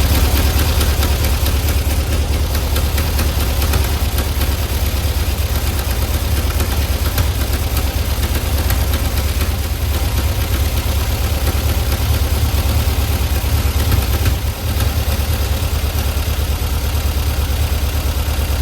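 Air-cooled VW flat-four engine running steadily at idle just after start-up, on a test run after its carburettor float was reset to stop fuel starvation and sputtering. The engine note dips briefly once, near the end.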